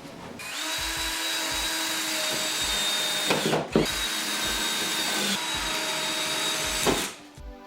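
Power drill running: it spins up to a steady whine about half a second in and runs for a few seconds. It stops briefly with a couple of knocks and then runs again until near the end.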